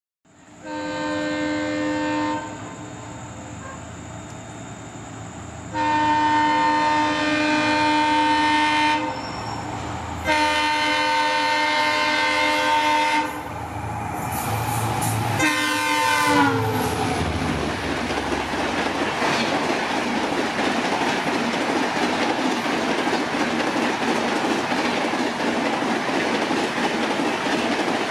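Indian Railways WDP-4D diesel locomotive's multi-tone horn sounding three long blasts as the train approaches, then a short blast that drops in pitch as the locomotive passes. The Rajdhani Express coaches then rush by at about 130 km/h with a steady rolling roar and wheel clatter over the rail joints.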